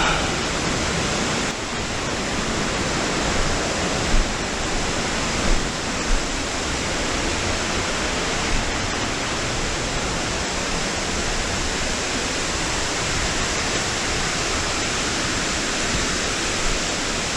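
Waterfall rushing steadily, a loud even roar of falling water, with a few brief low thumps about four to six seconds in.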